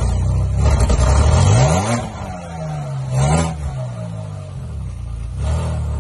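Engine of a DeLorean DMC-12 build running through its newly fitted silencer, revved twice: a rise and fall about a second and a half in and a shorter blip about three seconds in, then settling back to idle.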